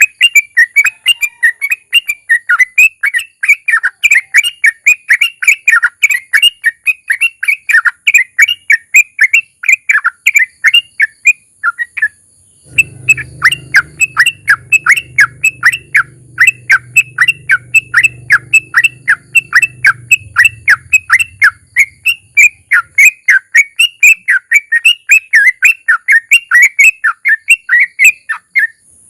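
Yellow-vented bulbul (trucukan) singing a long, rapid run of repeated chattering notes, several a second, with a brief pause about twelve seconds in.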